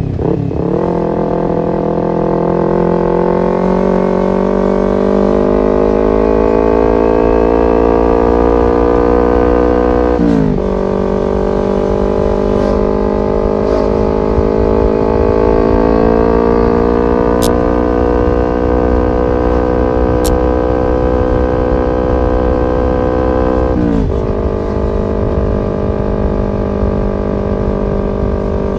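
Kawasaki Ninja 250 FI parallel-twin engine through an aftermarket R9 H2 SS exhaust, riding under load. The engine note climbs slowly in each gear, and upshifts near the start, about ten seconds in, and about two-thirds of the way through each drop the pitch sharply.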